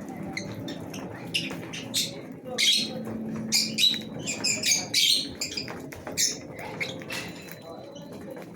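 A flock of lovebirds chattering: many short, high chirps and squawks overlapping, busiest from about two and a half to five seconds in, over a low steady hum.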